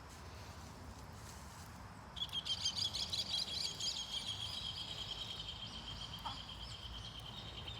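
A bird calling: a rapid, high chattering trill begins about two seconds in and runs on as a long, steady, high buzz.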